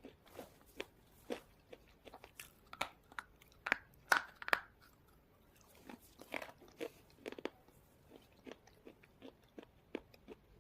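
Slate pencils being bitten and chewed close to the microphone: sharp, irregular crunches, the loudest bites in the first half, then softer, quicker chewing crunches near the end.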